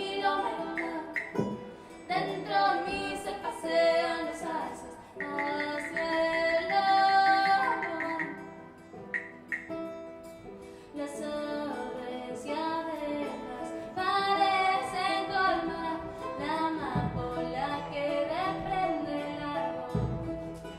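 Live music: a woman singing, with guitar accompaniment.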